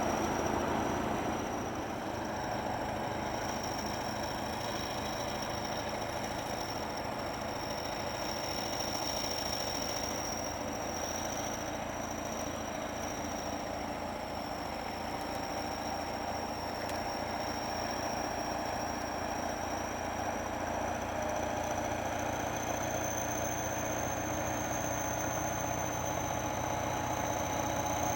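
Kirovets heavy articulated tractor's diesel engine running steadily, with a high whine held over it throughout.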